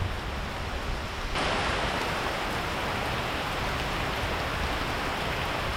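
Steady heavy rainfall, which suddenly gets louder about a second and a half in and then keeps on evenly.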